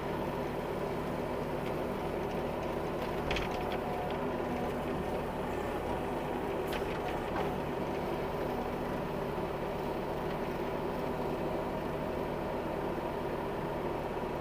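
Bobcat E26 mini excavator's diesel engine running steadily under load while digging, with a few faint knocks about three and seven seconds in.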